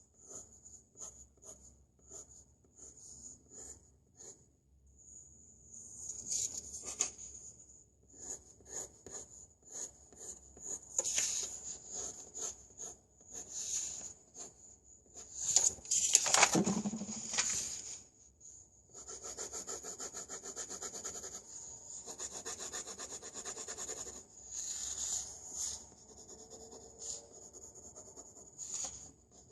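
Pencil drawing on paper: short scratchy strokes, then a run of quick, even back-and-forth shading strokes. A louder scrape comes about halfway through.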